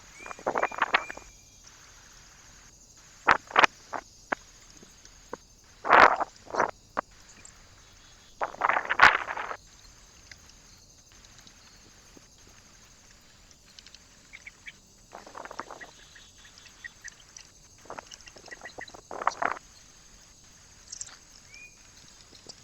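Birds at a feeder making short, harsh, quack-like calls at irregular intervals, with sharp knocks in between. The calls are loudest in the first half and fainter later.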